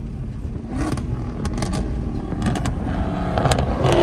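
A car engine idling with a steady low rumble and a few sharp clicks, getting louder in the last second.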